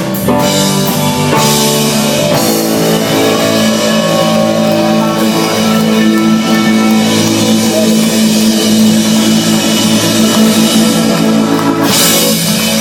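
Live rock band, electric guitars and drum kit, playing the closing instrumental bars of a song, letting a long chord ring. A final loud cymbal hit comes near the end as the song finishes.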